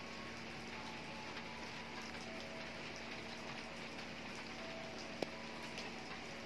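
Heavy rain falling steadily, with one sharp tick about five seconds in.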